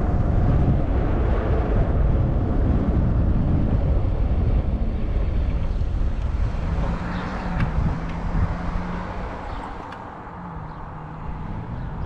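Wind buffeting the microphone of a moving e-bike. A faint steady low hum joins about halfway through, and the wind eases near the end.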